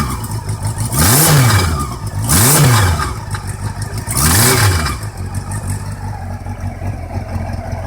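Honda CB400 VTEC inline-four motorcycle engine blipped three times, each rev rising and falling quickly, then settling back to idle about five seconds in. The owner records it because of a knock in the engine.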